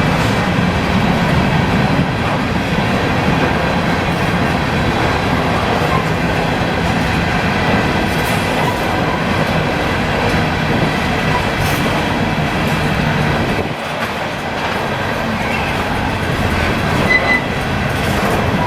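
Freight train rolling past, its steel wheels running continuously over the rails.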